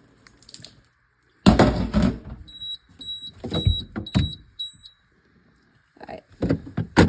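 A loud clatter, then a run of about eight short high electronic beeps from the refrigerator's beeper, with a couple of sharp knocks among them.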